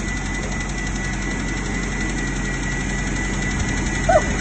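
1993 Toyota 22RE 2.4-litre four-cylinder engine running steadily with a rattle and knocking, which the owner says began along with a loss of power.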